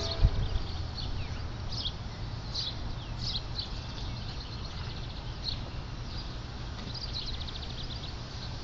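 Birds chirping in short high calls every second or so over a steady low rumble, with a single sharp thump about a quarter second in.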